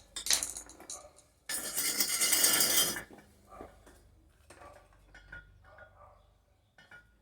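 Metal parts clinking and knocking as they are handled, with a loud hissing, crackling burst lasting about a second and a half, starting about a second and a half in.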